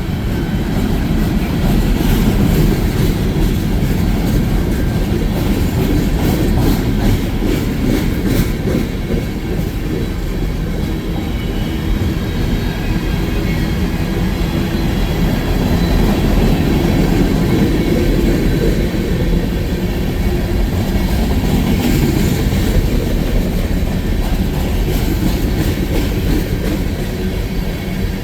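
A train passing close by with a steady low rumble, its wheels clicking over the rail joints in clusters.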